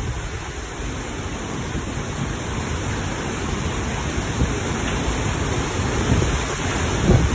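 Storm wind and heavy rain as a steady rushing noise, with low gusts buffeting the microphone; it builds slowly louder.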